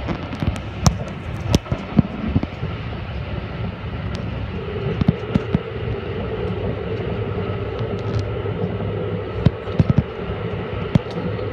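Haruka limited express electric train running at speed, heard inside the carriage: a steady low rumble and hiss with scattered sharp clicks and knocks. A steady hum joins in about four and a half seconds in.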